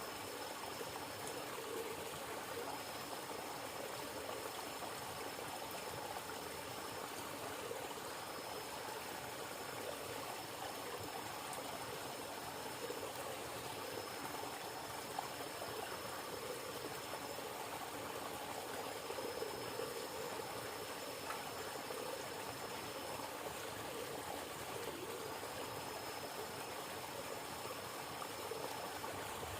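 Steady rush of flowing river water. Over it a thin, high-pitched tone sounds in stretches of a few seconds, with short breaks between them.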